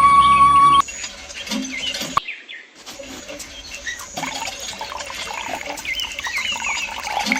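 Music cuts off under a second in, giving way to birds chirping over a quiet outdoor hiss.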